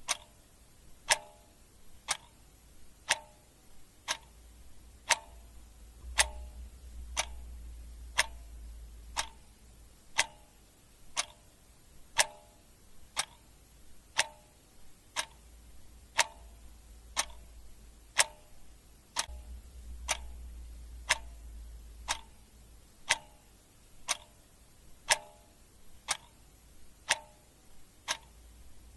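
Clock ticking steadily, a sharp tick about once a second with softer ticks in between. A faint low rumble comes and goes twice underneath.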